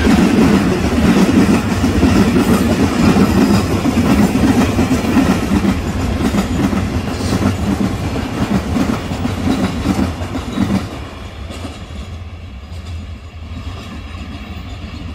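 Freight wagons of a long container train rolling past, their wheels running over the rails in a dense, loud rumble. About eleven seconds in the noise falls away sharply as the last wagons go by, leaving a quieter rolling sound.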